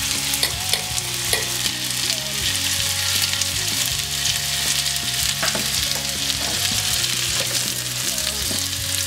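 Breaded chicken strips sizzling steadily in hot oil in a skillet, with small crackles and pops scattered through the hiss.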